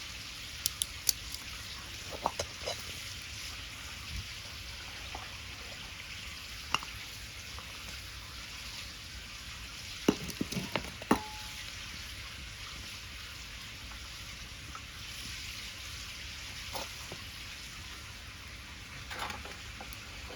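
Wood fire burning with a steady hiss and scattered sharp crackling pops, the loudest cluster of pops about ten seconds in.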